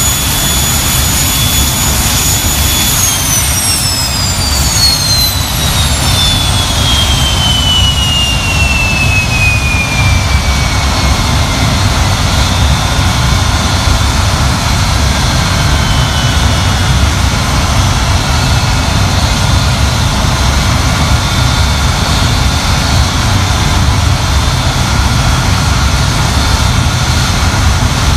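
Avro Vulcan B.2's Rolls-Royce Olympus turbojets running on the ground with a steady deep rumble. About three seconds in, the high turbine whine starts falling in pitch and keeps sinking for about nine seconds as an engine is throttled back, while the rumble carries on.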